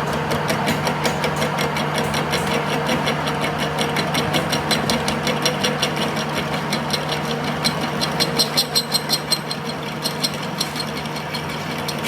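Steady machine hum under a fast, even run of sharp knocks, about five a second, loudest a little past the middle.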